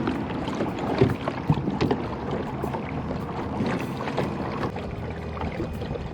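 Water sloshing around a kayak, with wind on the microphone and many small scattered clicks and knocks.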